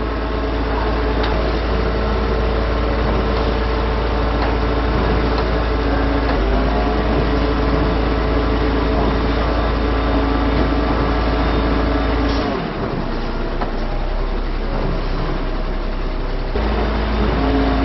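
Heavy truck diesel engine running steadily at raised revs, its pitch stepping up slightly about six seconds in. About two-thirds through its low rumble drops away, then comes back near the end.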